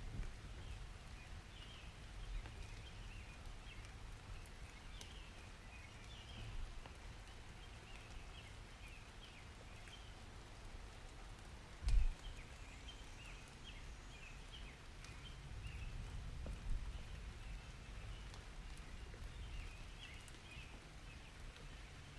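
Rain-and-birds ambience: small birds chirping on and off over a steady patter of rain, with a low rumble underneath. A single sharp thump lands about halfway through.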